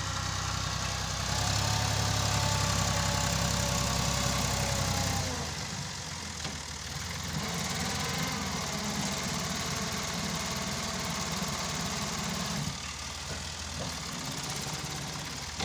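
Tractor engine running, louder for a few seconds and then dropping to a lower, quieter note about five seconds in.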